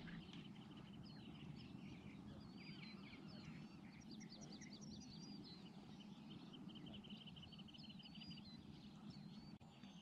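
Faint birdsong: scattered chirps and whistles, with a rapid trill near the start and another about two-thirds of the way through, over a low steady hum.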